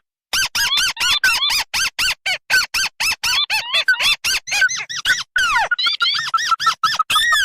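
Recorded crake calls played as a bird-trapping lure: a fast series of short, squeaky arched notes, about five a second, overlapping in layers. About five seconds in, the pattern changes to evenly repeated notes with falling glides.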